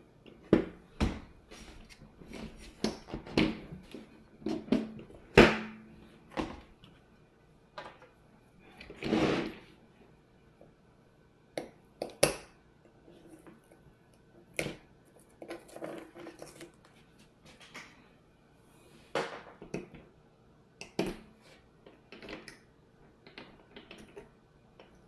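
Hand tools and small metal parts of an RC crawler clicking, clinking and knocking at irregular intervals, with a longer scraping rustle about nine seconds in.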